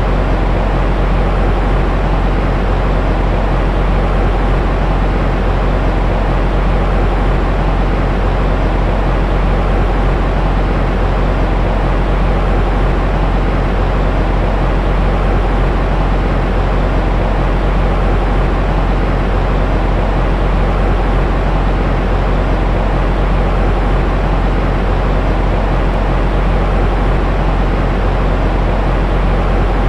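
Continuous white noise for soothing a baby to sleep: an even, unbroken rushing hiss, heaviest in the deep bass and soft in the treble, with no change throughout.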